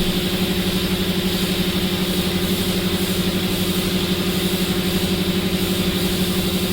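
A motor or engine running steadily at an even speed, with a low hum that pulses rapidly.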